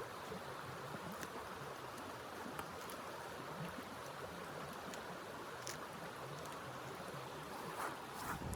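Steady rush of blizzard wind, fairly faint, with a few scattered faint ticks.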